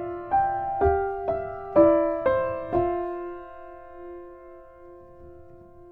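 Gentle solo piano music: single notes and chords struck about twice a second, then a chord left ringing and slowly fading away.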